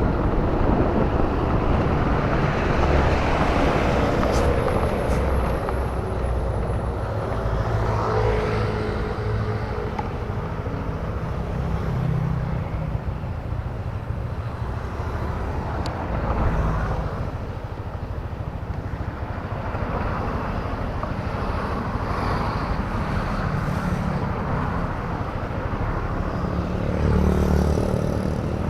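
Motorcycle engine running while riding, its pitch rising and falling with speed, over steady wind and road noise.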